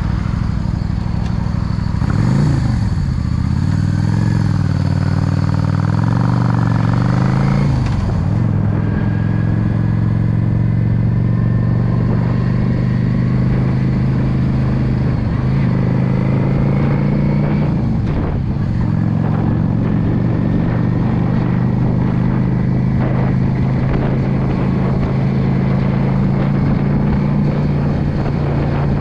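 Yamaha V Star 650's V-twin engine running on the road. Its pitch falls and climbs several times, the way it does through throttle and gear changes, then climbs slowly through the middle and dips once more later on.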